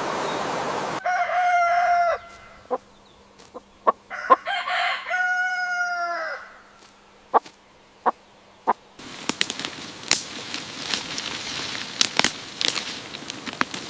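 A rooster crowing twice, the second crow longer and dipping in pitch at the end, with a few sharp clicks between the crows. From about two-thirds of the way in there is a steady rustling, crackling noise with scattered ticks.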